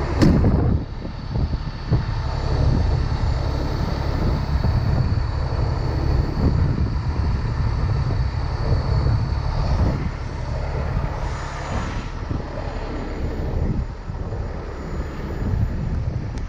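A heavy truck's engine running steadily: a continuous low drone.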